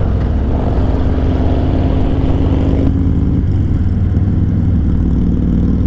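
Harley-Davidson V-twin motorcycle engine running steadily while riding, with a rushing noise over it that cuts off sharply about three seconds in.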